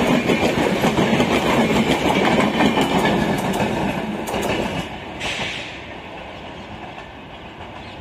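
An express train's coaches and parcel vans clattering past at speed, wheels running over the rail joints. The rumble fades over the last few seconds as the train draws away.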